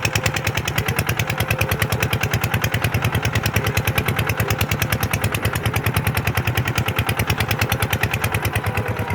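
Small Kubota diesel tractor engine running steadily, with an even pulse of about eight to nine beats a second.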